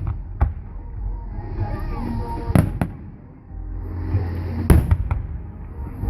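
Aerial fireworks bursting: sharp bangs about half a second in, a pair a little before the middle, and a quick cluster of three near the end, over a low rumble from the display.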